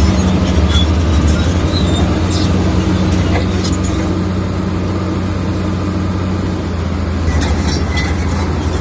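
Bulldozer's diesel engine running steadily under load, with scattered clanks and knocks over the top.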